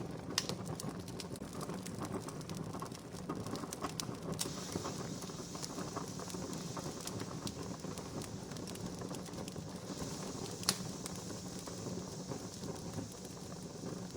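Wood campfire burning, with a steady hiss and frequent small crackles, and one sharp pop a little past the middle.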